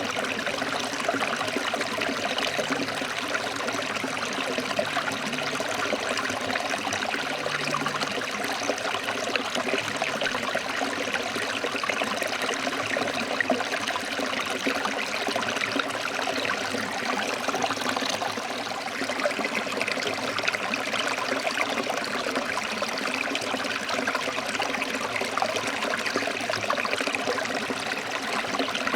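Forest stream flowing over rocks: a steady rush of running water with constant small splashes and gurgles.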